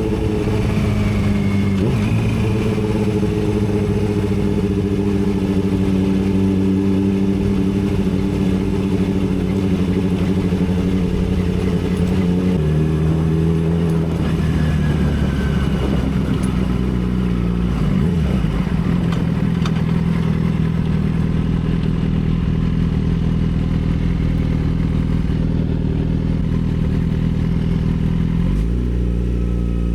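Yamaha R6's inline-four engine running while riding, holding steady revs with its pitch changing in steps a few times.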